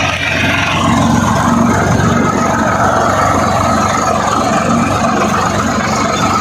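Swaraj 744 XT tractor's diesel engine running steadily, with an even firing rhythm and no change in speed.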